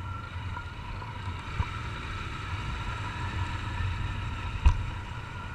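Honda CG Titan 150's single-cylinder four-stroke engine running steadily under way, heard from a helmet-mounted camera with wind noise. Two short knocks cut through, a faint one about a second and a half in and a louder one near the end.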